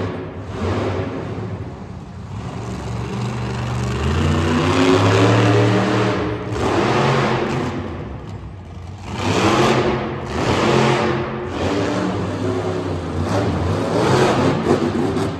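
Monster truck engine revving hard in repeated bursts, the pitch climbing and then dropping with each surge of throttle.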